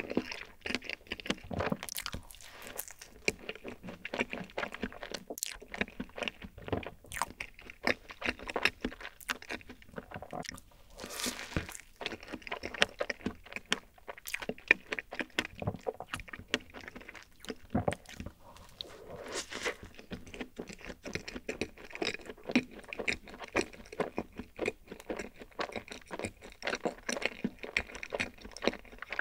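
Close-miked chewing of a soft strawberry cream sandwich: a dense run of small mouth clicks and smacks, with a brief rush of noise a little before the middle.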